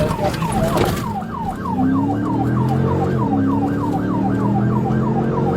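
Police siren in its fast yelp, a rising-and-falling sweep repeating about three to four times a second, over the steady lower drone of a moving vehicle.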